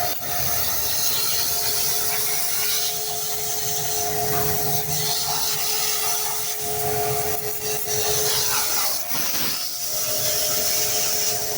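Steady machine noise: a hum holding two unchanging tones under a loud, even hiss, with brief dips about six and a half and nine seconds in.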